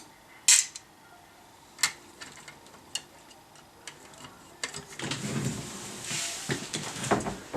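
Scattered sharp clicks and taps of small tools and parts being handled. From about five seconds in comes a louder stretch of rustling and scraping, with more clicks.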